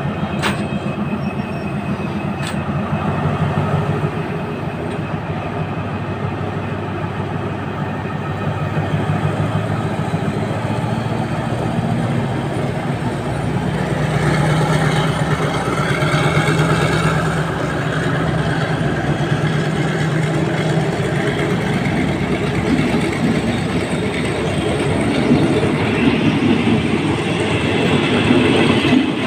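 Passenger coaches of a departing diesel-hauled local train rolling steadily past at low speed, their wheels rumbling and clacking on the rails. Two brief sharp clicks come in the first few seconds.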